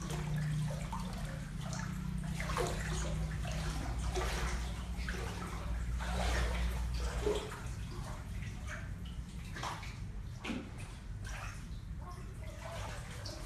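Water sloshing and splashing in uneven strokes as a cat paddles in a small swimming pool, over a steady low hum.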